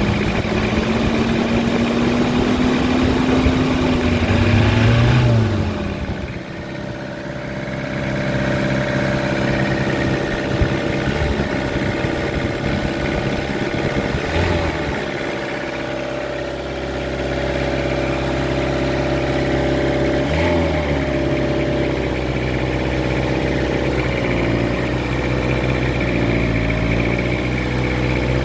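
Toyota 5L four-cylinder diesel engine of a 1998 Hilux running at raised revs for the first five seconds or so, then dropping back to a steady idle with a couple of brief throttle blips.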